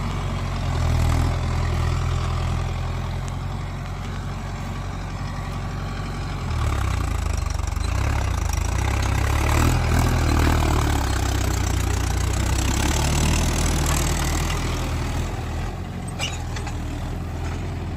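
Mahindra 475 tractor's diesel engine running steadily, its low drone growing louder about a third of the way in and easing off again near the end.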